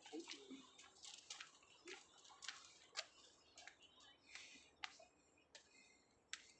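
Near silence with faint, irregular clicks, roughly one a second.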